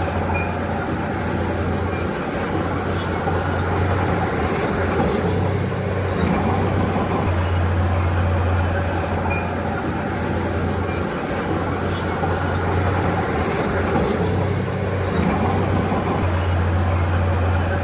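Bulldozer's diesel engine running under load, its low hum swelling and easing every few seconds, with scattered light clicks and clatter from the tracks and stones.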